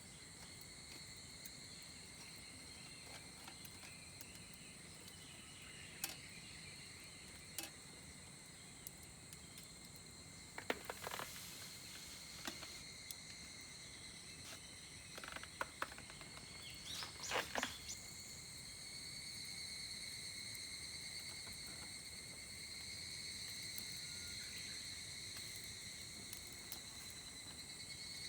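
Insects singing steadily in several high, unbroken tones, with scattered sharp clicks and crackles that bunch up about eleven seconds in and again around seventeen seconds in.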